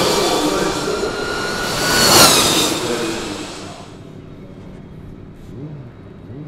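Electric racing motorcycles passing at speed with a high electric-motor whine. The loudest pass comes about two seconds in, drops in pitch as it goes by, and fades out by about four seconds.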